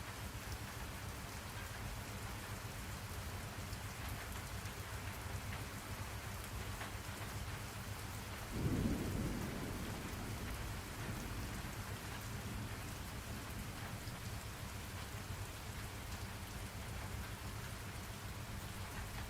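Steady rain falling, with a roll of low thunder starting suddenly about eight and a half seconds in and dying away over a couple of seconds.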